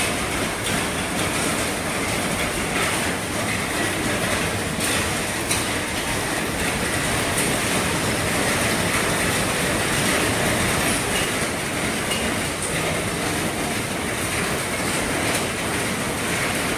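Heavy rain drumming steadily on an RV roof, a dense even wash of noise with now and then a sharper drop striking.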